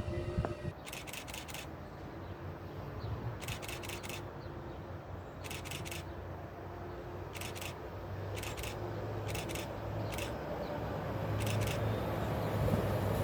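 A train approaching from a distance: a low rumble that builds steadily over the last few seconds. Quick clusters of three or four sharp, high clicks come every second or two throughout.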